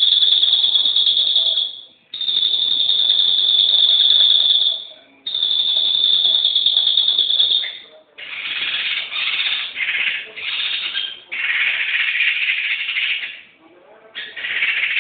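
Bird song: three long, steady, high whistled notes of two to three seconds each, then, about eight seconds in, a run of quick buzzy, rattling phrases.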